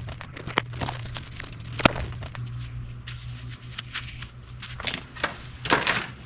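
Scattered clicks and knocks of tools and motorcycle parts being handled during hands-on work, with one sharp knock about two seconds in and a short cluster of scraping knocks near the end, over a steady low hum.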